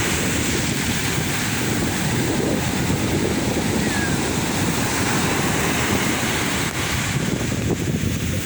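Sea waves washing steadily onto the shore, with wind buffeting the microphone.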